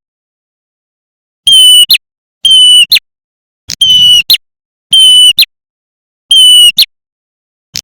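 Ashy tailorbird (prenjak merah) calls played as a loud lure recording. Five calls come about once a second. Each is a steady high note of about half a second, ending in a short, sharp upward note.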